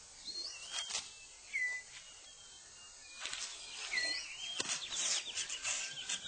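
Rainforest birds calling with short whistled notes that glide in pitch. Scattered snaps and rustles of leaf litter come as a male six-plumed bird of paradise clears his display ground, busier in the second half.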